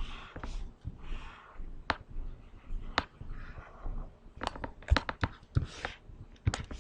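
Scattered light clicks and taps, with a few short soft rustles in between.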